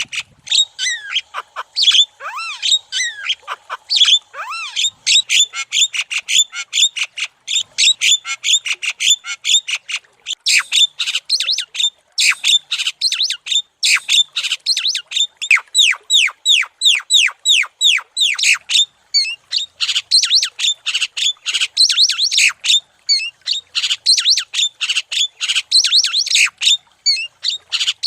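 Javan myna (jalak kebo) chattering in full song: a fast, unbroken run of short notes, several a second, some sweeping downward in pitch.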